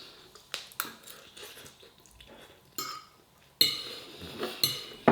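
Cutlery clinking and scraping against a dish during a meal: several separate sharp clinks, the loudest about three and a half seconds in.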